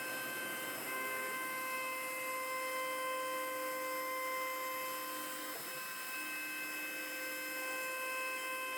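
CNC wood-carving router running, a steady whine of several tones over a hiss. A lower tone among them cuts out briefly about five and a half seconds in and then resumes.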